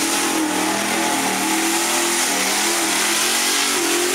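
Truck engine running and revving, its pitch rising and falling.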